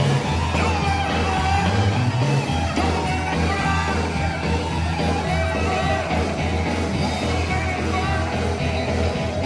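Sacred steel gospel band playing live and loud, with a heavy, steady bass line under a singing voice and sliding melodic lines.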